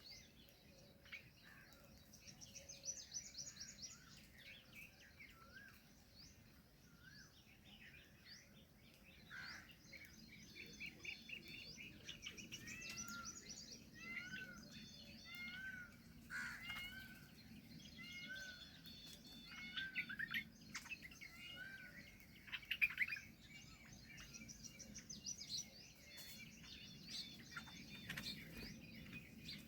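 A chorus of small birds chirping and singing at once: short repeated up-sweeping whistles, quick trills and scattered calls from several birds overlapping, a few louder calls standing out now and then.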